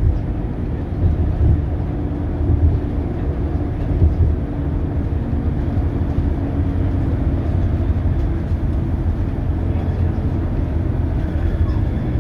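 Scania K280UB city bus with its Scania DC9 diesel engine running, a steady low rumble with a faint engine hum that fades about halfway through.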